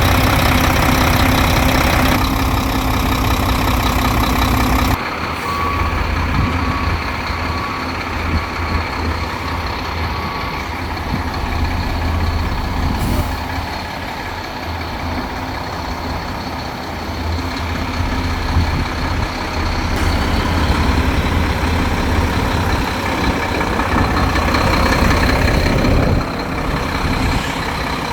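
Diesel engine of a 2012 Mack GU dump truck running with a steady low rumble, across several abrupt changes in sound. A reversing beeper sounds a row of evenly spaced beeps for about five seconds, from about a fifth of the way in.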